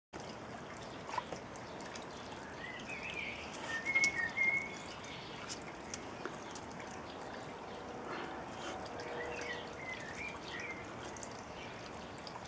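Garden ambience with a small bird chirping in short bouts, loudest about three to five seconds in and again from about eight to eleven seconds, over a steady outdoor hiss.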